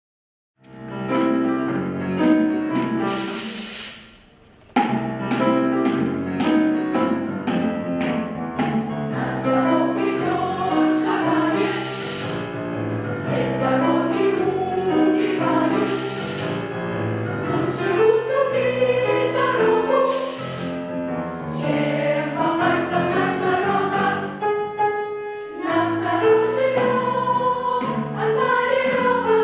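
Children's choir singing with piano accompaniment. The music starts about half a second in and dips briefly around four seconds.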